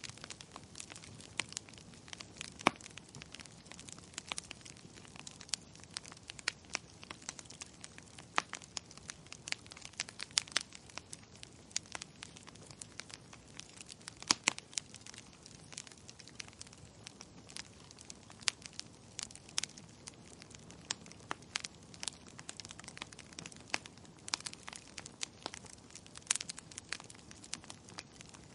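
Wood fire crackling in a fireplace: dense, irregular snaps and pops, some louder than others, over a faint steady hiss.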